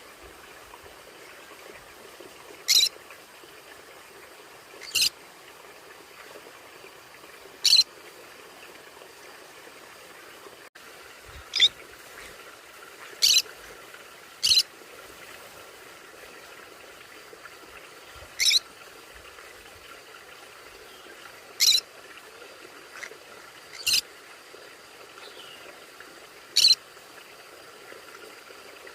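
Conure giving short, sharp, high-pitched single calls, about ten of them at irregular gaps of two to three seconds, over a faint steady background hiss.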